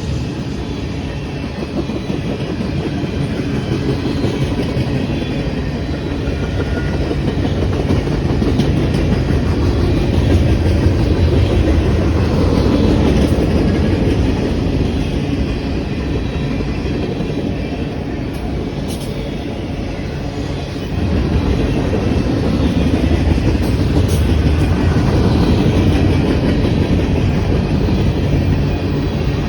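Freight train rolling past at close range, its wheels running steadily over the rails with a clickety-clack. It gets louder about 21 seconds in.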